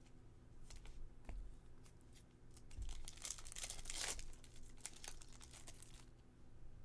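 Crinkling and tearing of a trading-card pack wrapper being opened by hand, in irregular rustling bursts that are loudest about three to four seconds in.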